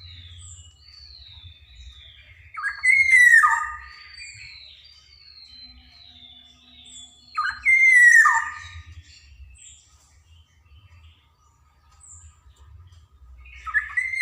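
Black-naped oriole calling: a loud, harsh call sliding downward, three times about five seconds apart, with fainter thin, falling whistles in between.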